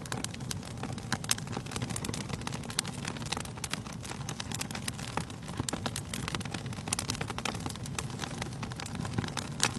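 Wood fire burning in a fireplace: a steady low rumble of flames under irregular sharp crackles and pops from the burning logs, with one louder pop near the end.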